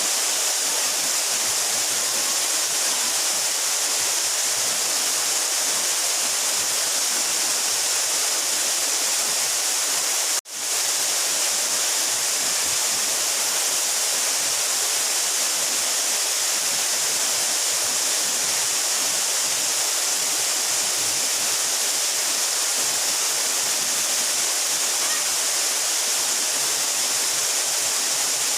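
Steady rush of water from a 12-metre mountain waterfall, with a brief dropout about ten seconds in.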